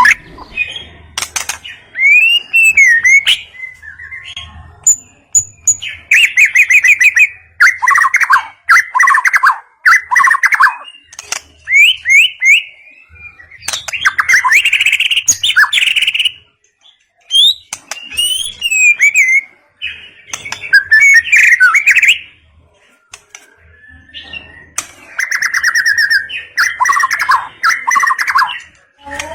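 White-rumped shama singing: varied phrases of whistled glides and fast trills, coming in bursts of a second or two with short pauses between them.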